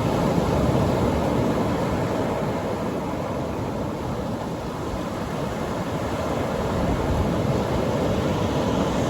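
Atlantic Ocean surf breaking and washing on the beach: a steady, deep rush of water noise that swells and eases slowly as the waves come in.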